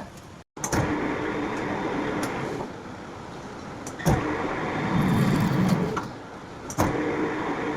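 Metal lathe running while turning a thread, a steady machine noise with a low hum. It is broken by three sharp knocks: about half a second in, at about four seconds, and near seven seconds.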